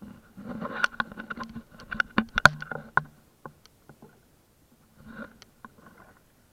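Kayak paddling: water splashing, with a run of sharp knocks that is busiest in the first three seconds and comes again more briefly about five seconds in.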